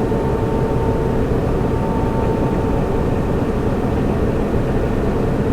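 Server room ambience: the steady rushing of cooling fans with a constant pitched hum running through it, unchanging throughout.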